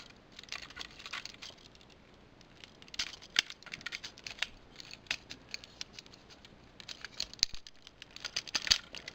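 Plastic action-figure parts being handled and pressed together: irregular small clicks and scrapes as the pieces of the Rail Racer combiner are lined up and pushed into place.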